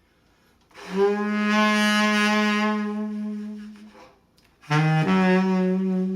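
Saxophone playing slow, long held low notes. After about a second of quiet, one note is held for about three seconds; after a short breath, a brief lower note steps up into another long held note.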